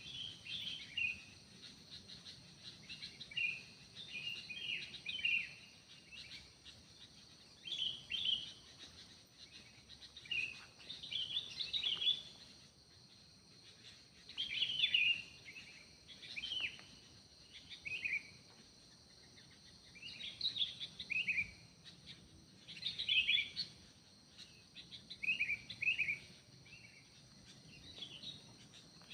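Forest birds singing short, quick chirping phrases, high-pitched, repeated every second or two, with a steady high drone underneath.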